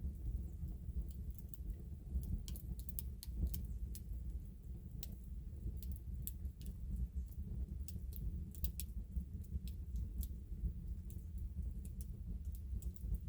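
Irregular sharp clicks and ticks, scattered through the whole stretch, over a steady low rumble.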